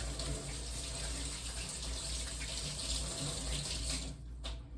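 Kitchen tap running into a sink as sticky hands are rinsed under it, a steady rush of water that stops about four seconds in.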